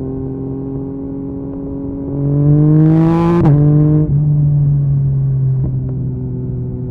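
Yamaha MT-09's three-cylinder engine through an Akrapovic carbon exhaust, running steadily and then revving up about two seconds in. Its pitch climbs, drops sharply about halfway through, and then eases slowly down.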